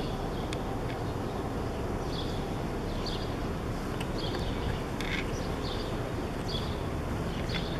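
Steady low outdoor rumble with a small bird's short, high chirps repeating about once a second.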